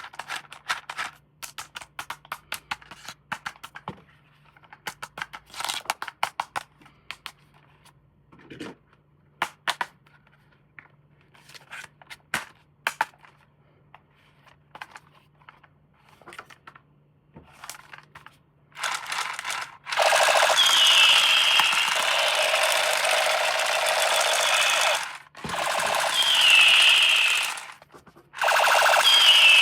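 Scattered clicks and crinkles as a plastic toy and its packaging are handled. About two-thirds of the way in, a toy's small electric motor and plastic gears start running loudly with a whine, stopping briefly twice.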